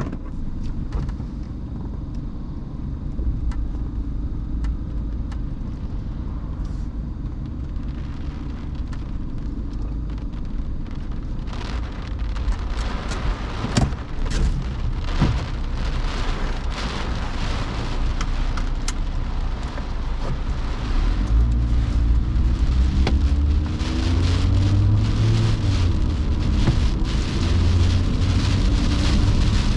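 Car driving in the rain: a steady low rumble of engine and road with rain hitting the car, the rain and tyre hiss getting louder from about halfway. Near the end the low rumble grows heavier and a pitched hum slides up and down.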